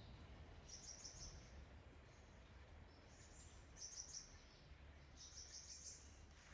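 Faint forest ambience: several short clusters of high, rapid chirps, a few seconds apart, over a low steady rumble.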